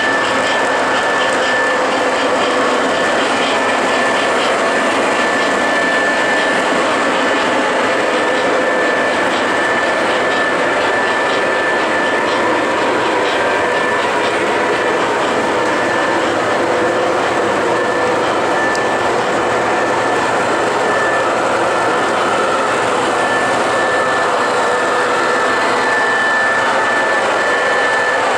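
O scale model train running on the layout: a steady whirring rumble of motors and wheels on the track, with a constant high whine.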